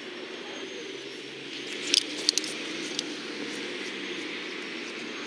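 A vehicle engine running steadily, with a few sharp clicks about two seconds in.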